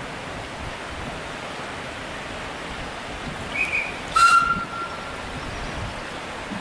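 Steady running noise of a narrow-gauge heritage train moving slowly, with a brief high whistle about three and a half seconds in and a louder short whistle blast just after four seconds.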